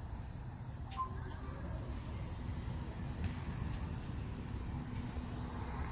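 Steady high-pitched drone of insects, over a low background rumble.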